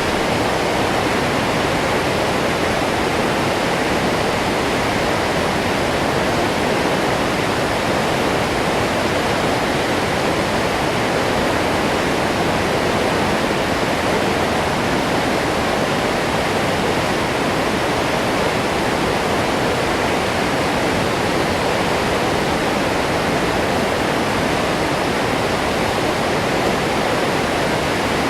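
Waterfall: water falling and rushing in a steady, unbroken roar with no change in loudness.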